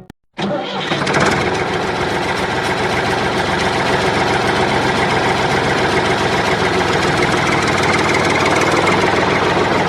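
Tractor engine sound effect running steadily at idle, cutting in abruptly a moment after a brief silence.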